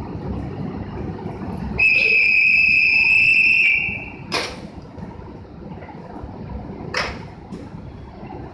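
A whistle blown in one long steady note for about two seconds, the signal for the local train's departure, followed by two sharp knocks a few seconds apart over a low steady rumble.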